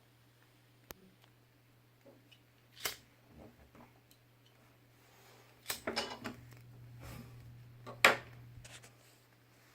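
Scattered clicks and knocks of things being handled, the loudest a sharp knock about eight seconds in, over a steady low hum.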